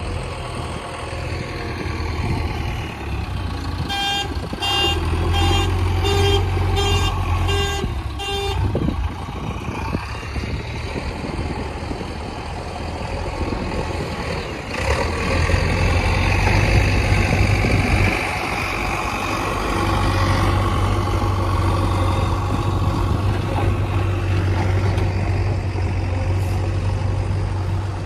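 Heavy diesel engine running steadily, working harder for a few seconds around the middle. About four seconds in, a reversing alarm beeps about twice a second for roughly four seconds.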